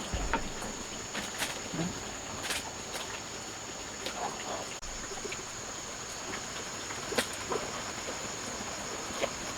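Insects chirring steadily in a high, even pitch, with a few scattered short clicks and faint snatches of voices.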